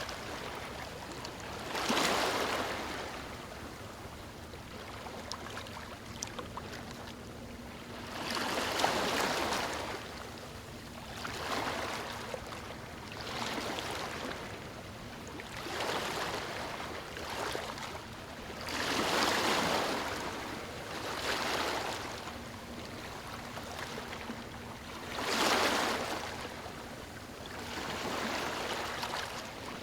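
Small waves washing onto a beach, the rush of water swelling and fading every few seconds, with the biggest surges about two, nine, nineteen and twenty-five seconds in.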